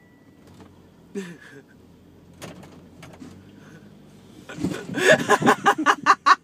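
Ride-on lawnmower engine running with a low steady hum and a few knocks, then about four and a half seconds in, loud, rapid, breathless laughter in quick bursts of several a second.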